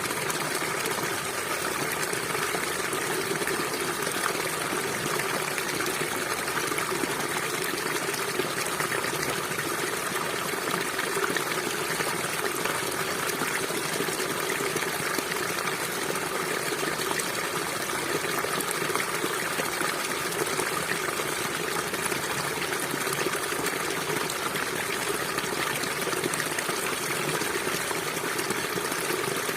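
River water flowing, a steady, even sound of moving water with no pauses or changes.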